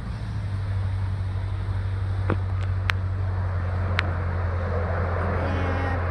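Steady low rumble of a car's engine and road noise heard from inside the cabin while driving, with a few brief clicks in the middle.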